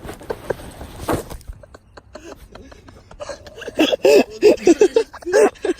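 A person laughing hard in a quick run of short bursts, starting about three seconds in. Before that there is only a faint noise and a few small clicks.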